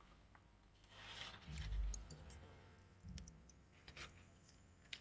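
Scattered light clicks and two dull low thumps of things being handled and set down, the louder thump about one and a half seconds in.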